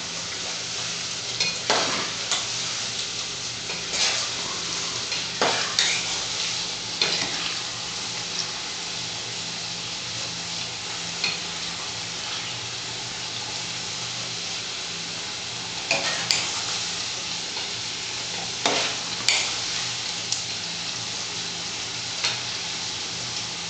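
Potato strips deep-frying in hot oil in a stainless steel saucepan: a steady sizzle, with a metal utensil clinking and scraping against the pot every few seconds as the fries are stirred.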